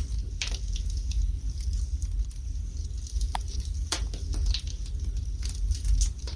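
Wood fire burning in a fireplace, crackling with scattered sharp pops at irregular intervals over a steady low rumble.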